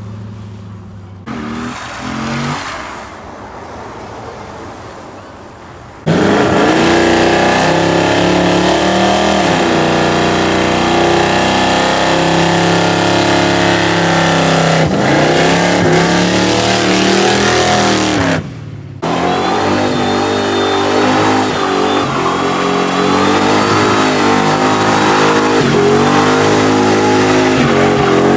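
Car engines accelerating and revving as cars drive past. For the first few seconds an engine falls in pitch and fades. About six seconds in, loud engine revving begins suddenly, with revs rising and falling, broken by a brief drop about eighteen seconds in.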